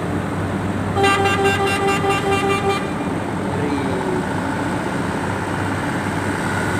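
A vehicle horn sounding in a rapid string of short beeps, about four a second for nearly two seconds, on one steady pitch, starting about a second in. It sounds over the steady rumble of running vehicle engines.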